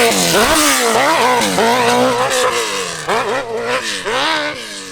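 Open-class hillclimb motorcycle engine revving hard, with the pitch repeatedly rising and falling as the throttle is worked on the climb. It grows quieter and more broken after about three seconds.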